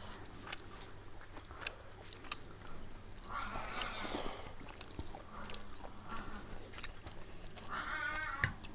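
Close-miked eating sounds: chewing of pork curry and rice with scattered wet mouth clicks and smacks, and a longer, louder hissy mouth sound about three and a half seconds in.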